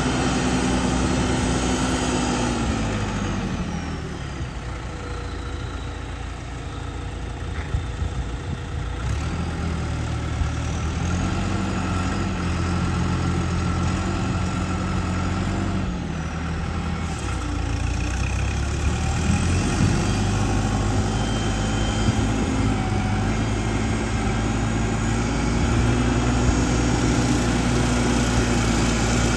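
John Deere tractor engine running, its speed changing a few times: it slows about three seconds in, picks up again around ten seconds, dips once more around sixteen seconds and comes back up near twenty.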